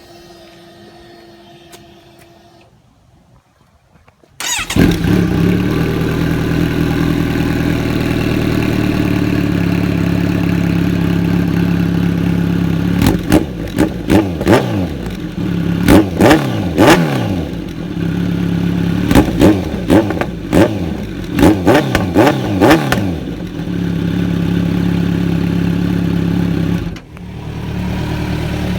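2017 Kawasaki Z900's inline-four starts about four seconds in and idles through an aftermarket exhaust, Arrow racing headers and an SC Project S1 slip-on with its baffle still installed. In the middle it is blipped repeatedly in quick bursts of revving, then settles back to idle, with a brief dip in sound near the end.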